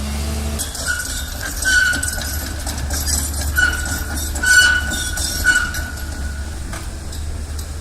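Heavy machinery running with a steady low rumble, and a high metallic squeal that comes and goes several times.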